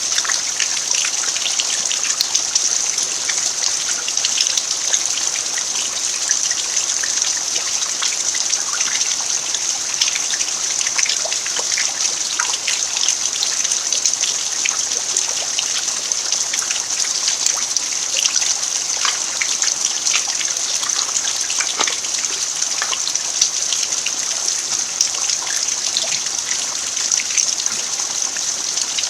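Steady rain falling on a dirt yard: a dense, even hiss sprinkled with many small drop ticks, with some trickling water.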